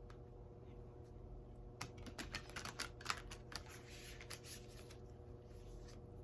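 A deck of oracle cards being shuffled by hand: a quick run of sharp card clicks starting about two seconds in, then a softer sliding rustle that fades out.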